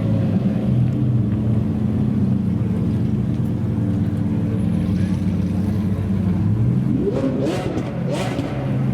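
Supercar engine idling steadily, then revved near the end, its pitch rising and falling back.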